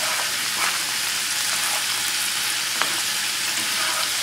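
Panko-breaded veal and chicken cutlets frying in a pan on a slow, steady sizzle, with a couple of light clicks of a metal spatula against the pan as the cutlets are lifted to check underneath.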